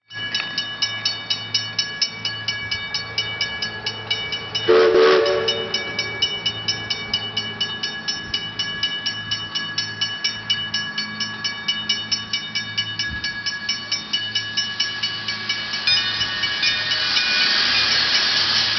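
Two-foot gauge steam train running, with a rapid, even clicking of about four or five beats a second over a steady high ringing. About five seconds in, a short loud whistle blast; a hiss grows louder over the last few seconds.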